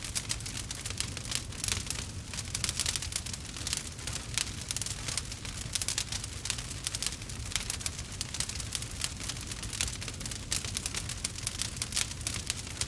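Wood fire crackling in a fireplace: dense, irregular pops and snaps from burning logs over a low, steady rumble.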